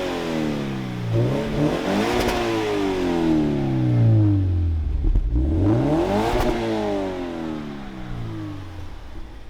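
Car engine being revved twice through its exhaust: it climbs quickly about a second in and again about five seconds in, each time dying back down slowly. The exhaust is jokingly called "-2 decibel, this shit quiet", meaning it is loud.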